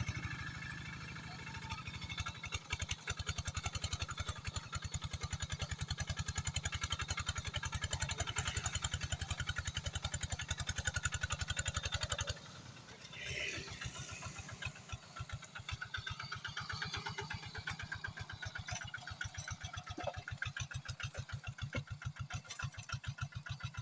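Rice-field tractor engine running with a fast, even chugging beat. About halfway through it briefly drops off, then runs on more lightly.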